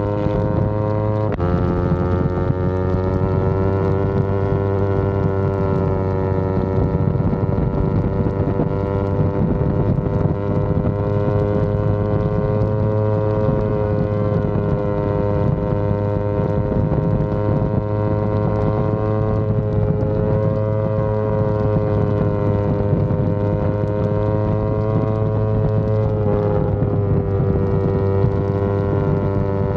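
Yamaha R25's parallel-twin engine running at steady cruising revs, an even drone whose pitch drifts slowly up and down, with a brief change in the note about a second in and a small dip near the end.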